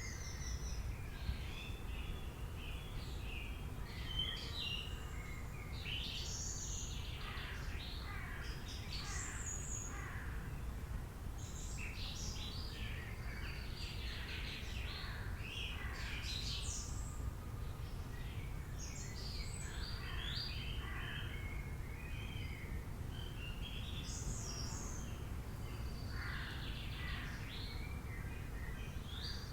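Several wild birds chirping and calling in overlapping bursts of short, high, sweeping notes, thinning briefly a little past the middle, over a steady low background rumble.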